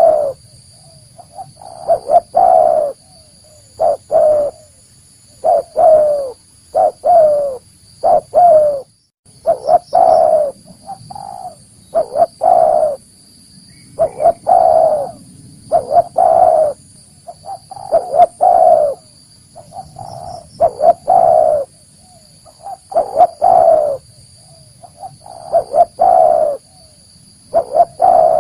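Spotted dove cooing over and over in short phrases of a few notes, coming every one to two seconds, as a lure call to draw wild doves in. A faint steady high-pitched whine runs underneath.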